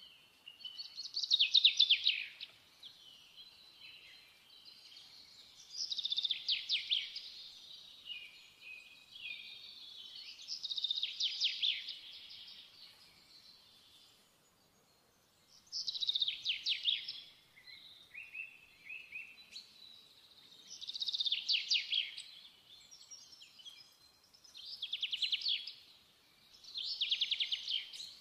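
A songbird singing: about seven short phrases of rapid trilled notes, each a second or so long, repeated every few seconds.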